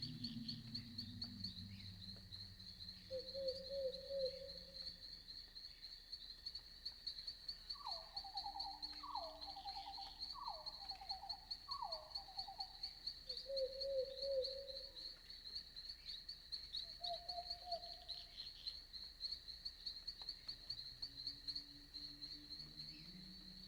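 Crickets chirping in a steady, pulsing chorus. Other animals call over it now and then: a few short low calls, and a run of four falling calls near the middle.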